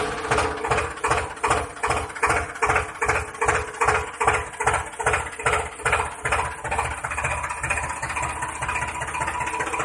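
Small engine-like motor running with a rhythmic chugging, about two beats a second, turning faster and smoother about seven seconds in.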